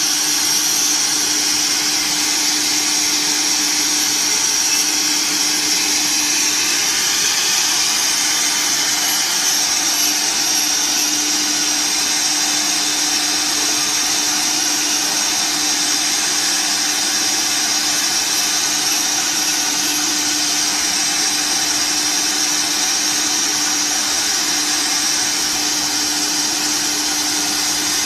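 Multi-head CNC router running: a steady high-pitched whine over a lower steady tone, even in level throughout.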